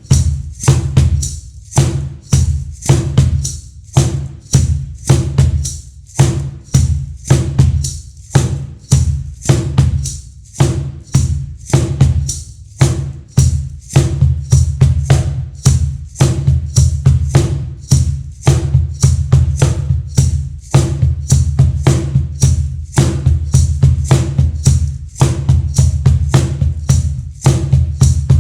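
Meinl cajon played by hand in a steady groove: deep bass tones from the centre of the front plate alternating with sharp, rattling slaps near the edge, several strokes a second.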